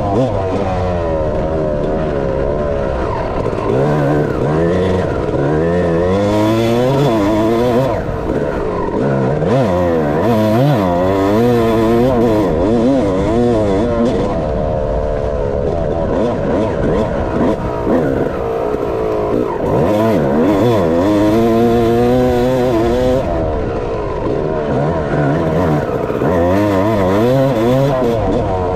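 Dirt bike engine being ridden hard, revving up and falling off again and again as the rider throttles, shifts and brakes.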